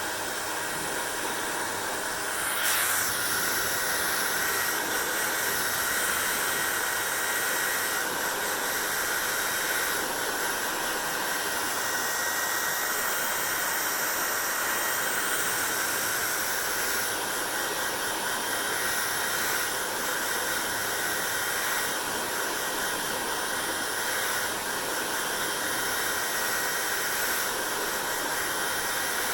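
Hand-held hair dryer running steadily: a continuous rush of blown air with a faint steady whine from the fan. The rush swells briefly about three seconds in.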